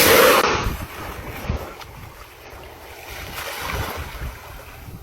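Wind buffeting the microphone over water washing around a small boat at sea, loudest in the first second and then lower and uneven.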